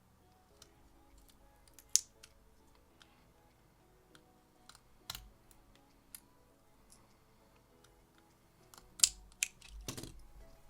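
Scattered sharp clicks and taps of small tools and parts being handled on a workbench, with two loud clicks and a short rattle near the end, over faint background music.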